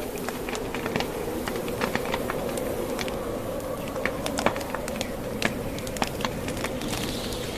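Wood fire in a fireplace, the burning logs crackling with irregular sharp pops, several a second, over a steady rushing noise.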